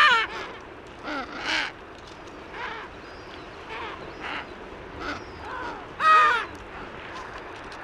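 A flightless bird giving a series of short, harsh, crow-like calls, about a dozen in all, with loud ones at the start and about six seconds in.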